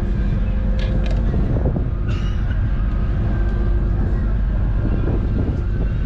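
Ferry engine running steadily: a loud, even low drone with a few constant tones over it.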